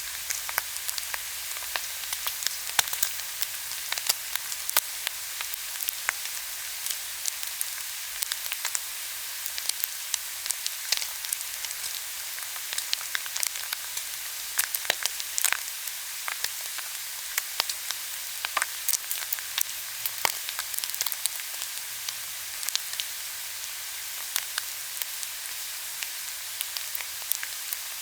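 Pork belly sizzling as it grills: a steady hiss of frying fat with frequent sharp pops and crackles.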